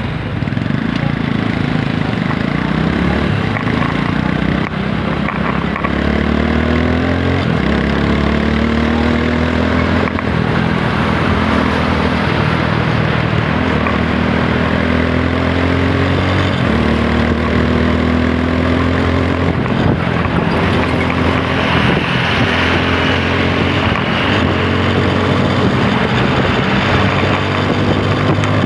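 TVS Apache 160 4V's single-cylinder engine pulling, its pitch rising again and again and dropping back at each gear change. Wind noise on the microphone grows in the second half.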